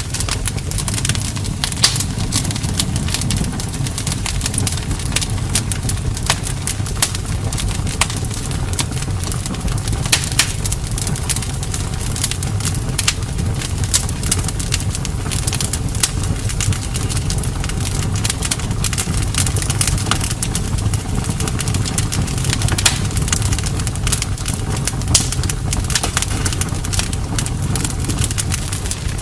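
Campfire burning, the wood crackling with frequent sharp pops over a steady low rumble of the flames.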